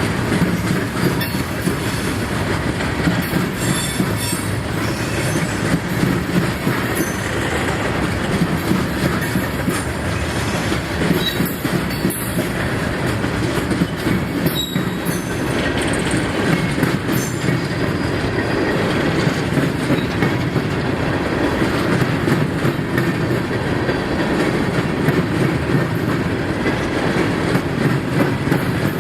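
Freight train of loaded ballast cars rolling past, a steady rumble and clatter of steel wheels on the rails with clicks over the joints. Brief high wheel squeals come a couple of times around the middle.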